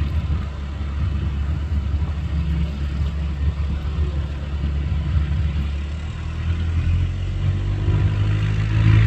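An engine running steadily with a low rumble; about seven seconds in its tone settles and near the end it grows louder.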